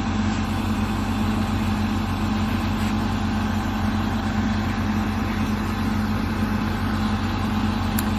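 Heavy diesel engine running steadily at a constant low idle, with no change in speed.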